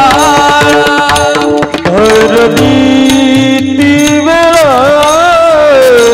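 Devotional kirtan music: a long, ornamented sung melody with wavering, gliding held notes, over steady tabla and mridang strokes.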